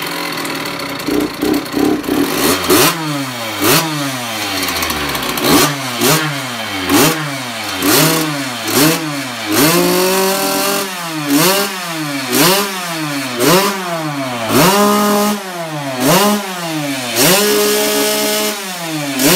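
Freshly rebuilt two-stroke youth motocross bike engine running. It idles briefly, then is revved again and again, about once a second, the pitch jumping up and dropping back each time.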